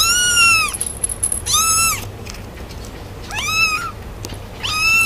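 Kitten meowing four times, short high-pitched meows each rising and then falling in pitch.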